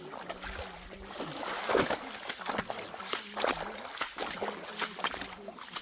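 Water splashing and sloshing in a series of irregular splashes, loudest a little under two seconds in, with faint voices in the background.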